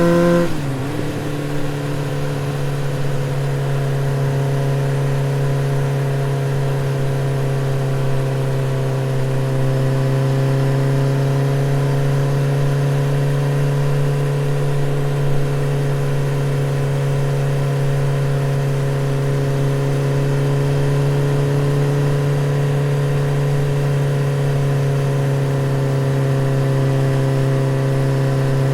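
Yamaha R15 V3's 155 cc single-cylinder engine running through a modified exhaust: the engine note drops quickly about half a second in, then holds a steady note at a constant engine speed.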